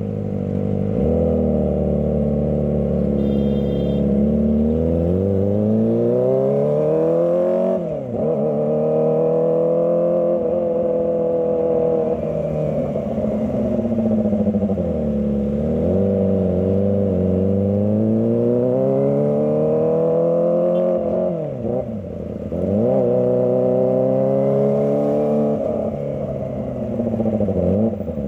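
Kawasaki ZX-25R's 250 cc inline-four engine revving up and down while riding in stop-and-go traffic. The pitch climbs steadily for several seconds, drops sharply about eight seconds in, then rises and falls several more times.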